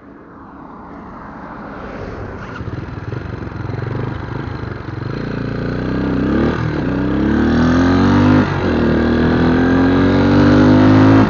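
Scrambler motorcycle engine accelerating hard through the gears, growing steadily louder. Its pitch climbs and drops twice for upshifts, about six and a half and eight and a half seconds in.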